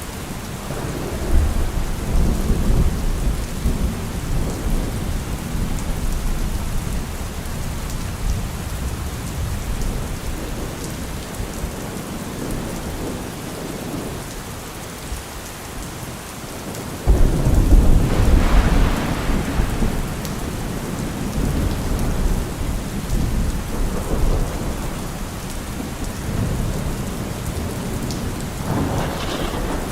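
Heavy rain falling steadily on a car roof, with thunder rumbling. One roll builds about a second and a half in, a louder rumble starts suddenly about 17 seconds in, and another comes near the end.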